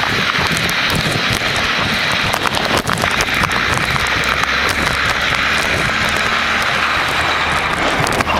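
A motor vehicle running steadily on a snowy street, its noise swelling and easing over a few seconds, over a low steady hum.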